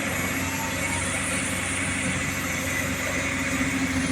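Large engine running steadily with a constant low hum.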